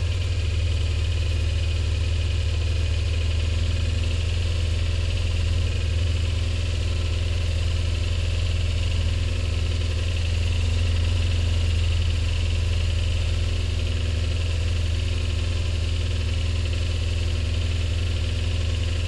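A car engine running at a steady idle: a constant low hum that does not change in pitch or level.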